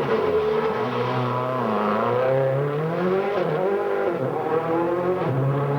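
World Rally Car's turbocharged four-cylinder engine accelerating hard, its pitch climbing and dropping back at each gear change, several times in a row.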